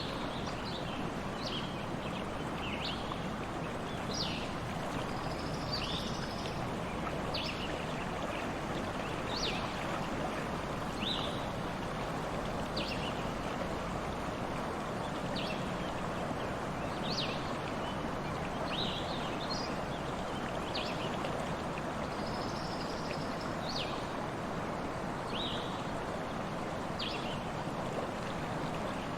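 Steady rushing of a flowing stream, with short high chirps of a small bird repeating about every one to two seconds.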